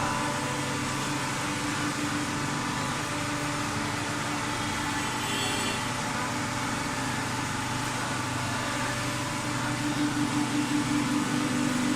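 Automatic waste-paper baler running: a steady mechanical hum with several held tones. About ten seconds in, the hum starts to pulse rapidly.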